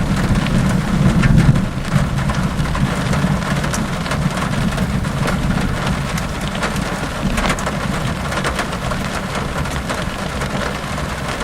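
Thunder from a cloud-to-ground lightning strike over water: it breaks in suddenly, is loudest for the first couple of seconds, then rolls on as a long deep rumble.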